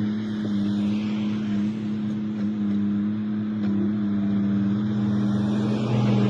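Engine of road construction machinery running at a steady speed, a constant low hum.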